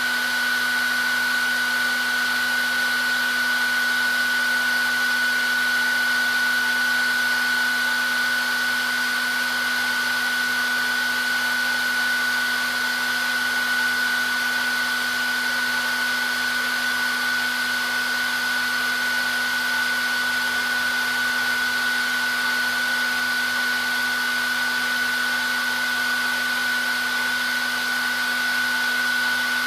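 Handheld hair dryer running continuously: a steady rush of air with a constant high motor whine and a lower hum, never changing.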